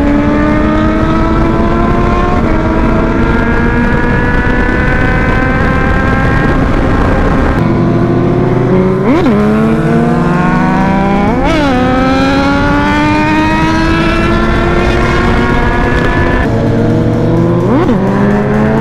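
Motorcycle engines on a group ride, heard on the move with heavy wind rumble. A steady engine note climbs slowly in pitch as the bikes pull along. Three sharp, brief revs shoot up and fall back, about halfway through, a couple of seconds later, and near the end.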